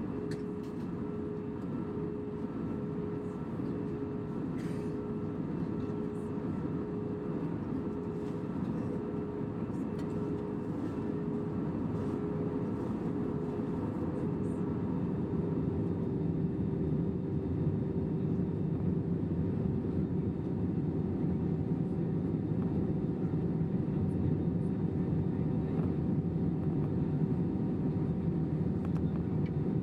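Airbus A320 cabin noise in flight: the steady rush of engines and airflow, with a few steady hums on top. It grows a little louder about halfway through.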